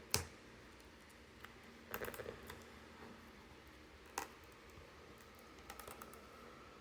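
Sharp clicks and light handling noises from a plastic DVD case being handled: a loud click at the start, a short clatter about two seconds in, another single click about four seconds in and a few small ticks near the end.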